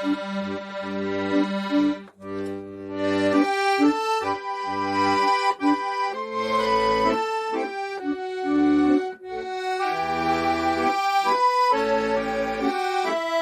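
Accordion playing a slow trot melody with sustained right-hand reed notes over a rhythmic bass accompaniment. There is a short break in the phrase about two seconds in.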